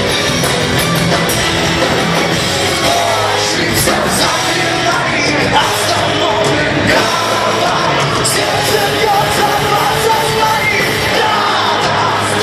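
Power metal band playing live, a singer's voice carried over the full band.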